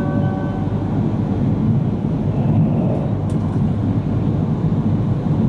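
Steady low rumble of a Yamagata Shinkansen train running along the line, heard from inside the passenger car.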